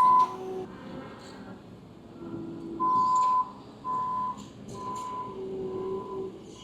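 Vehicle backup alarm beeping: a high steady tone repeating, one longer beep about three seconds in, then roughly one beep a second.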